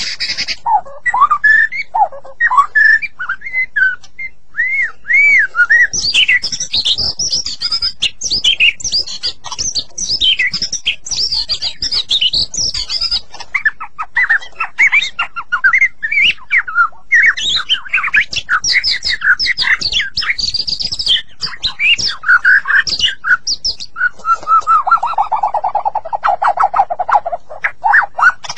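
White-rumped shama (murai batu) singing a long, varied song of loud whistled phrases with quick rising and falling notes and trills. A lower, harsher chattering phrase comes near the end.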